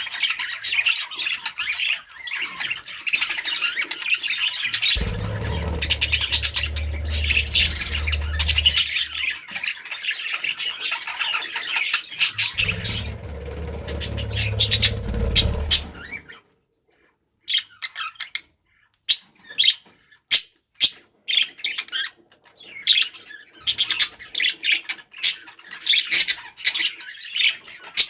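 Budgerigars chattering, chirping and squawking. A low hum runs under them twice. About two-thirds of the way through the sound drops out for a moment, and the chirping comes back sparser and more broken.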